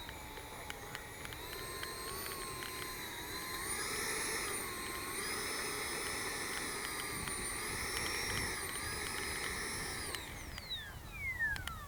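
A 70 mm ducted-fan jet's 12-blade aluminum EDF unit whining at low throttle as the jet taxis. The pitch rises a few seconds in, wavers as the throttle is worked, then spools down in a long falling glide near the end.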